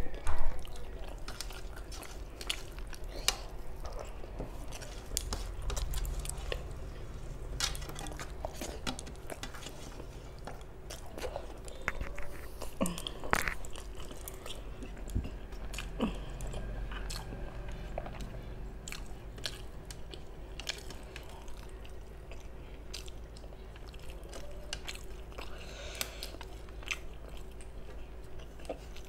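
Close-miked chewing of rice and curry eaten by hand, with scattered wet clicks and smacks from the mouth.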